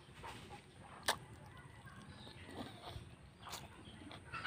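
Close-up chewing with a few sharp mouth smacks, from eating fried catfish and rice by hand, over faint rural background noise.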